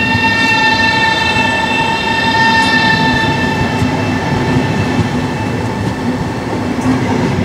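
Alstom Pendolino ED250 electric train running through a station: running noise with a steady high tone and its overtones, which fade away over the last few seconds.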